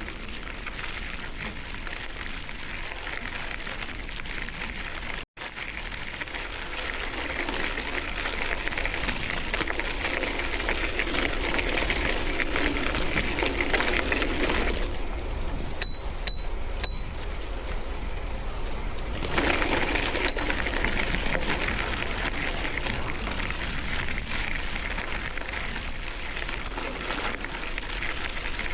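Steady riding noise from a moving bicycle, tyres on the road and air rushing past the microphone, louder after the first few seconds. About halfway through come three quick sharp clicks, and one more a few seconds later.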